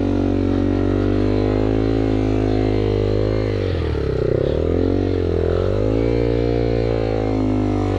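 Yamaha TW200's single-cylinder four-stroke engine running under steady throttle while riding, dropping in pitch briefly about halfway through and once more a little later, then picking back up.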